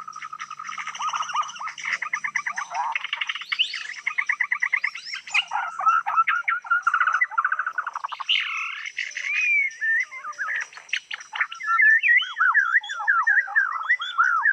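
Murai songbird singing a long, varied song of rapid trills, whistled glides and chattering notes, over a steady high hiss.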